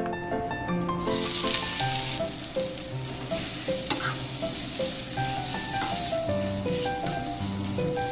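Strips of Korean fish cake (eomuk) sizzling in hot oil in a pan while a wooden spatula stirs them; the sizzle begins about a second in and then keeps going.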